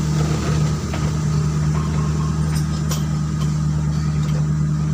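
Steady low hum of an idling engine, with a few light clicks about halfway through.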